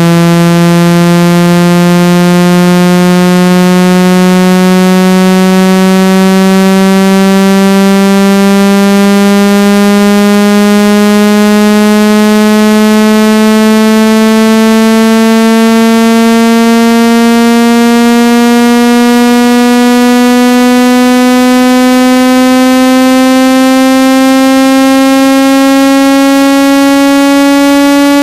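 Speaker water-ejection tone: a loud, buzzy synthetic tone rich in overtones, sliding slowly and steadily upward in pitch. It is played at high volume to vibrate trapped water out of a phone speaker or earphone.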